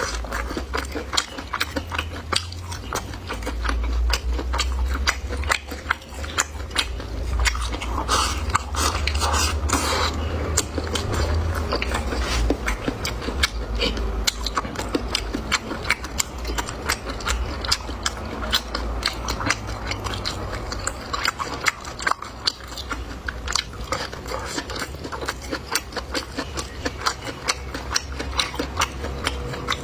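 Close-miked chewing of food, dense rapid wet clicks and smacks with a low thudding underneath.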